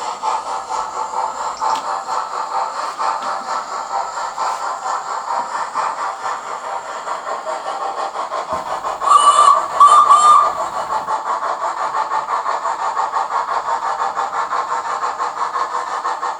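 Steam locomotive sound effects from a Hornby Flying Scotsman model pulling away: a steady, regular rhythm of exhaust chuffs, broken about nine seconds in by two short, loud whistle blasts.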